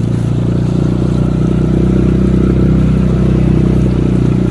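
Small outboard motor running steadily under way, its engine note even throughout.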